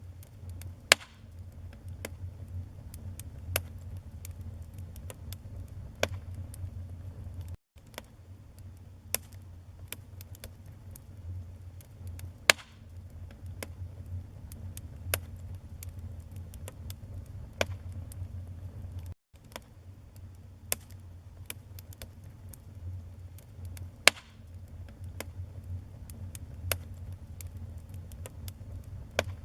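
Wood fire crackling: frequent sharp snaps and pops of burning logs over a low steady rumble of the flames. Louder pops come about a second in, near the middle and near the end. The sound cuts out for an instant twice.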